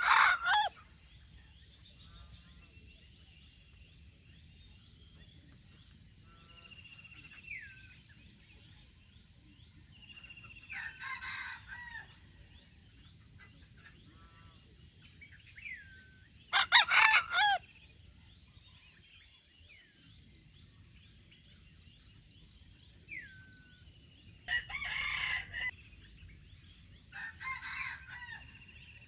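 A rooster crowing repeatedly, about five crows of a second or so each, the loudest near the start and about two-thirds through. Short falling whistles from other birds come between the crows, over a steady high-pitched drone.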